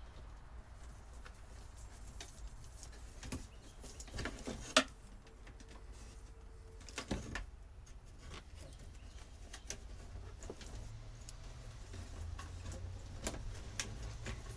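Scattered light clicks, knocks and handling noise from hand work on old boat wiring, with one sharp click about five seconds in, over a low steady hum.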